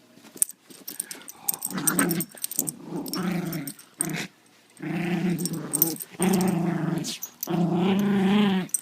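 Morkie puppy growling in play during tug-of-war: a string of low growls, each about a second long, with short breaks between them. A few sharp clicks come in the first two seconds.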